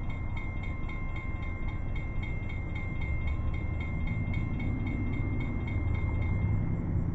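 An approaching train's low rumble, growing louder from about three seconds in. Over it runs a rapid high-pitched pulsing, about four beats a second, that stops shortly before the end.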